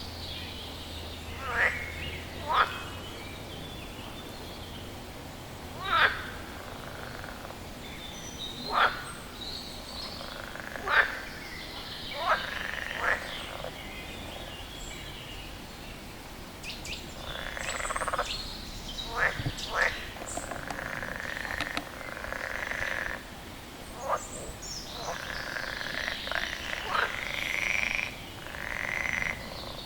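A frog calling with short, sharp croaks, singly or in quick pairs, at irregular gaps of one to a few seconds. From about the middle, a fainter, steadier chorus of calls runs underneath.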